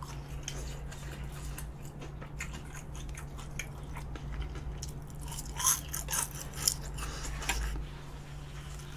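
Close-miked biting and chewing of crisp battered deep-fried food (Korean twigim), a run of crunchy crackles with a few louder crunches about six to seven seconds in.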